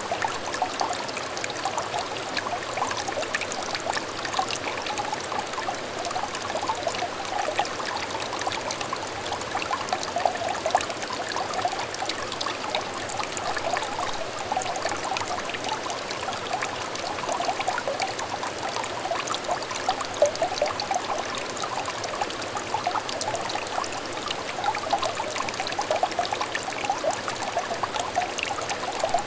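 Small brook trickling steadily, a dense, continuous patter of little bubbling plinks over a soft rush of water.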